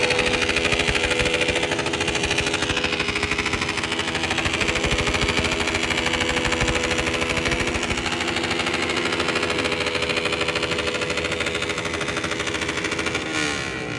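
Motorcycle engine running loud at steady revs with a fast, even exhaust beat; near the end its pitch drops as the revs fall away.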